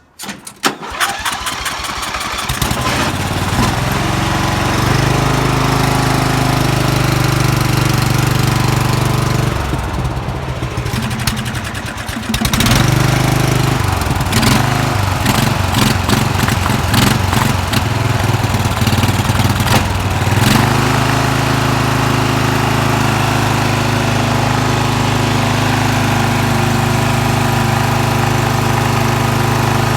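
Murray lawn mower engine cold-started after priming: it cranks for about two seconds, catches, then runs unevenly with dips and surges through the middle before settling into a steady run. The owner takes the rough running to mean it needs new rings.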